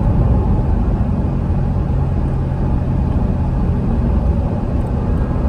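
2016 Corvette Stingray Z51's 6.2-litre LT1 V8 running while driving, over a steady low rumble of tyres and road. The engine note holds steady, then climbs in pitch about four seconds in.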